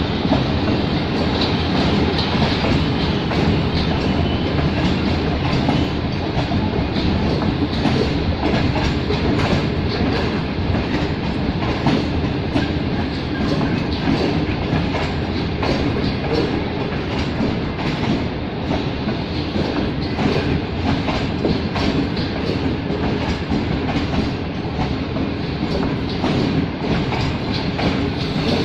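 Train running at speed: a steady rumble with a run of sharp clicks as the wheels pass over the rails.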